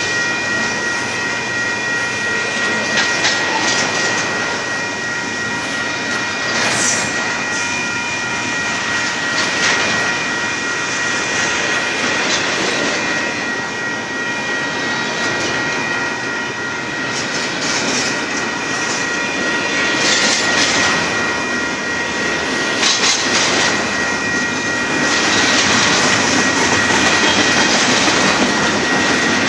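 Union Pacific double-stack container train rolling past: a steady noise of freight-car wheels on the rails, with scattered sharp clanks and steady high-pitched ringing tones over it.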